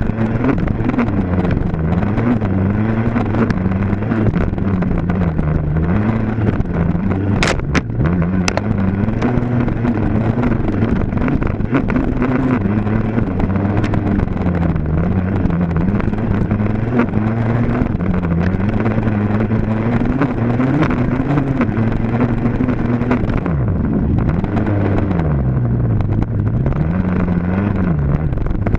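Dirt bike engine running without a break, its pitch rising and falling again and again as the throttle opens and closes. A few sharp clicks sound about eight seconds in.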